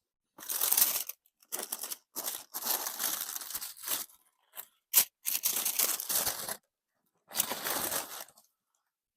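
Paper in a sneaker box rustling and crinkling as it is handled, in several bursts of about a second each, with one sharp snap about five seconds in.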